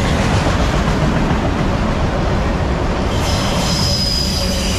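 Empty autorack freight cars rolling past, their steel wheels rumbling and clattering on the rails, with a high steady wheel squeal that starts about three seconds in.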